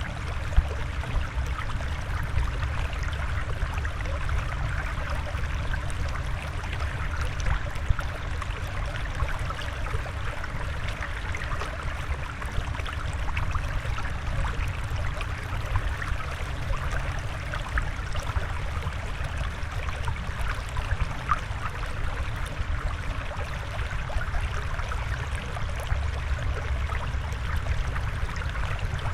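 Steady flowing, trickling water with a low rumble underneath, like aquarium water flow. A couple of brief ticks stand out, one near the start and one about eight seconds in.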